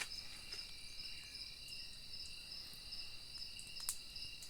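Night insects chirring steadily in a few high pitches, with a faint click shortly before the end.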